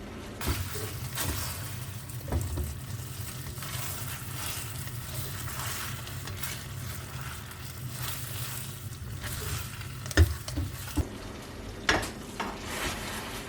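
Thick, syrupy Coca-Cola sauce sizzling in a pan as chicken drumsticks are turned and stirred, with now and then a utensil knocking against the pan. The sauce has reduced nearly to a glaze. A low steady hum runs under it and stops about eleven seconds in.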